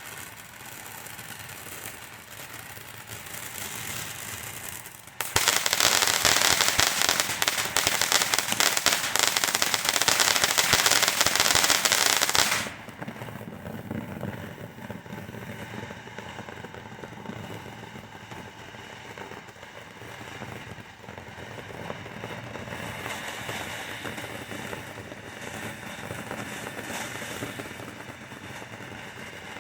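Vibrant Voltage fountain firework burning with a steady hiss. About five seconds in, it breaks into a loud, dense crackle for roughly seven seconds, then drops back to a quieter hiss.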